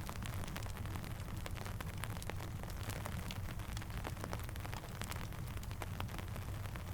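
Steady rain mixed with a crackling campfire: many scattered sharp pops and clicks over an even hiss and a low rumble.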